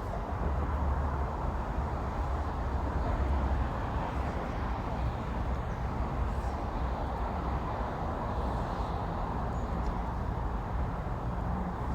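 Steady outdoor rumble and hiss, heaviest in the low end, with a few faint ticks.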